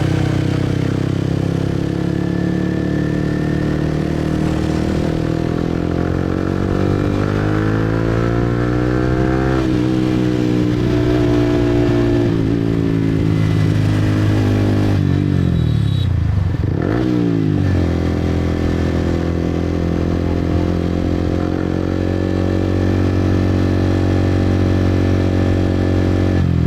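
Motorcycle engine running under way. Its pitch climbs steadily, drops and climbs again, then falls away steeply about two thirds of the way through as the bike slows, picks back up and holds a steady speed.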